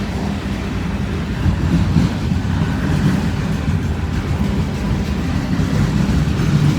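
CSX mixed manifest freight train's cars rolling past at close range: a steady, loud low rumble of steel wheels on rail.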